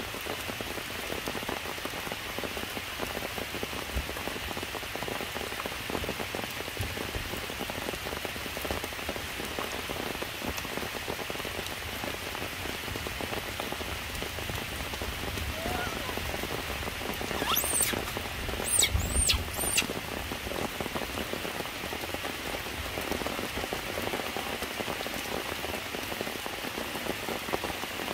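Steady rain falling on foliage and rocks. About two-thirds of the way through, a few brief, high, sweeping squeaks sound over it.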